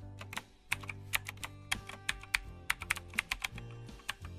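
Typing on a computer keyboard: quick, irregular key clicks, over background music with steady held notes.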